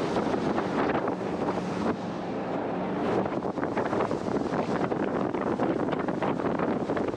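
Jet boat under way on the river: its engine and water jet running steadily under heavy wind buffeting the microphone.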